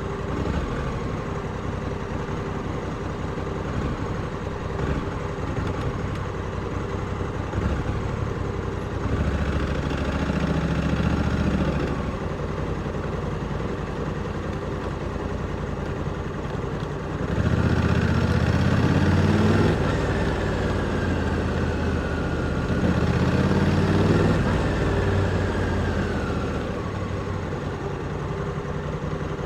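Honda Africa Twin 1100's parallel-twin engine heard onboard, running at low speed, with the throttle opened for louder stretches about nine seconds in and again from about seventeen seconds in, its pitch rising and falling.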